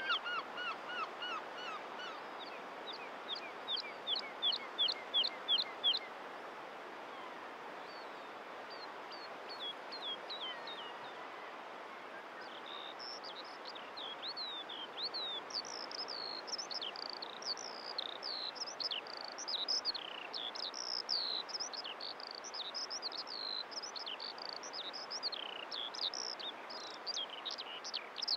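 Small birds singing: fast runs of short, high, falling whistled notes for the first few seconds, then from about halfway a varied, high twittering song, over a steady outdoor background hiss.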